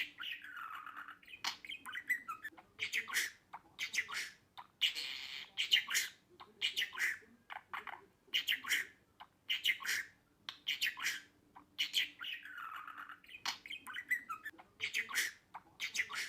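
Budgerigar chattering: a quick run of short chirps mixed with longer warbling squawks that carries on without a break.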